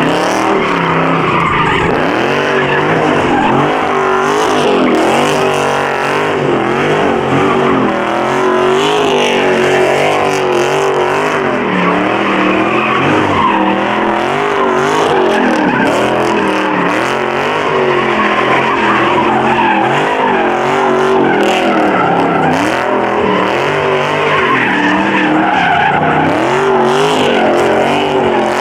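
Muscle car engine revving hard, its pitch rising and falling with the throttle, while the tyres squeal in a sustained burnout.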